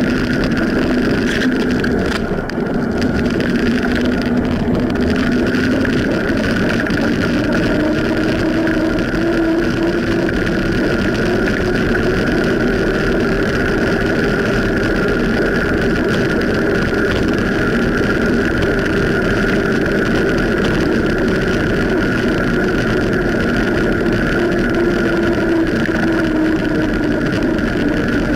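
Continuous road and wind noise from riding a bicycle on wet roads in the rain: steady tyre hiss and wind on the microphone, with a steady drone of a few tones underneath.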